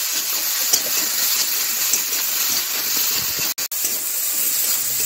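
Diced potatoes, eggplant and onion sizzling in oil in a kadai as they are stirred with a spatula: a steady frying hiss. The sound cuts out for an instant twice, a little after the middle.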